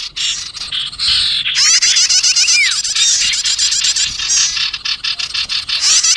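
Lure recording of small songbirds, sirtu and prenjak (prinia), chirping and trilling in a loud, dense chorus. Rapid, high, overlapping notes and a few short rising whistles come from several birds at once, the kind of noisy flock calling played to draw small wild birds in.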